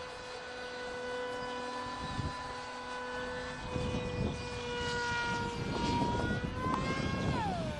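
Homemade brushless outrunner motor and propeller of a Multiplex TwinJet RC model plane whining steadily in flight. Its pitch rises slightly and then falls sharply near the end as the throttle is pulled back. A rough low rushing noise grows through the second half.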